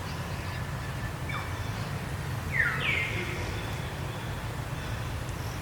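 Two short, high animal calls about two and a half seconds in, each falling in pitch, over a steady low rumble of background noise.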